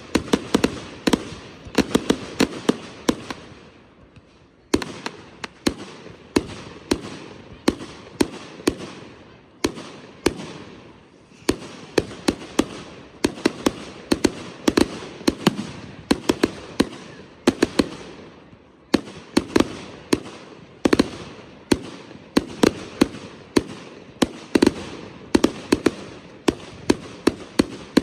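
Consumer fireworks display: rapid volleys of aerial shells and cakes firing and bursting, sharp bangs in quick clusters with crackle between them, with a short lull about four seconds in.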